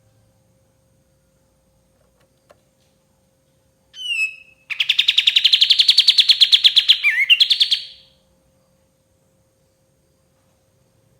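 Kapas tembak bulbul singing: a single falling call about four seconds in, then a rapid trill of fast repeated notes lasting about three seconds, ending in a few separate notes. A faint steady hum lies underneath.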